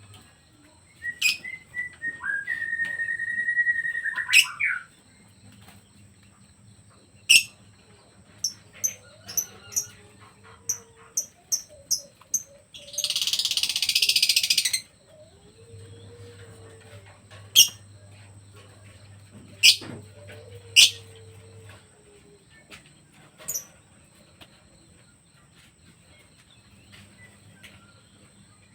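Pet birds calling: a held high whistle near the start, then short sharp chirps scattered through, with a burst of rushing noise lasting about two seconds around halfway.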